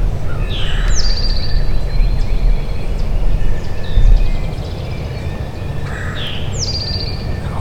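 A songbird sings the same short phrase twice, a falling sweep followed by a quick high trill, about five seconds apart. A steady low rumble runs underneath and is the loudest thing.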